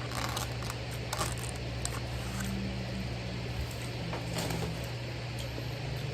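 Person eating a fast-food burger meal: a few soft chewing smacks and handling noises over a steady low hum.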